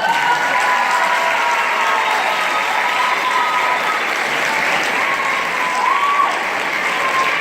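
Audience applauding steadily, with a few long high-pitched shouts over the clapping.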